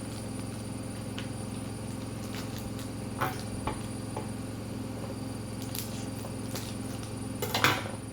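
Plastic toy packaging being handled and opened: scattered short crinkles and clicks, the loudest a brief cluster of crackling near the end, over a steady low hum.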